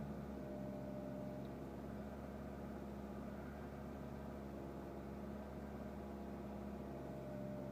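Toyota Corolla's 1.8-litre four-cylinder engine running steadily at its raised cold-start idle, the idle the owner finds surging to over 2000 rpm on cold mornings only.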